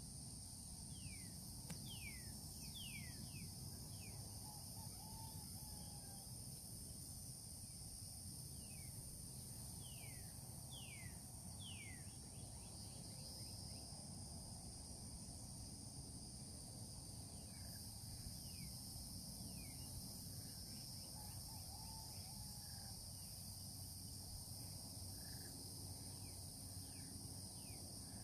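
Steady high-pitched insect chorus of crickets, with bird calls over it: runs of quick falling notes, one run in the first few seconds and another about ten seconds in, then fainter calls later. A low steady rumble sits underneath.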